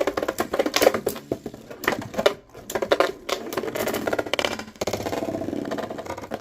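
Two metal Beyblade spinning tops, Galaxy Pegasus W105R²F and Lightning L-Drago 100HF, clashing in a plastic stadium: a rapid run of sharp clicks and rattles as they hit each other and the walls, settling into a steadier whir about five seconds in as one top is knocked out.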